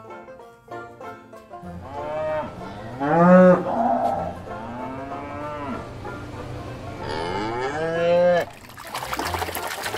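Several deep, drawn-out animal calls, each rising and then falling in pitch, followed near the end by a stretch of noisy hiss.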